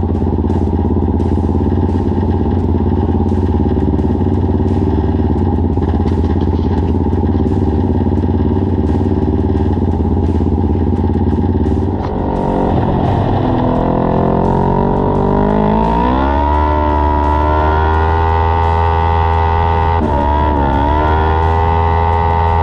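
Micro sprint race car engine running at speed on a dirt oval. About halfway through its pitch drops, then climbs steadily for several seconds and holds high, with a brief dip near the end.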